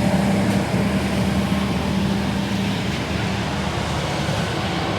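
Street sweeper running as it passes: a steady engine hum over a broad hiss, the hum easing after about three seconds.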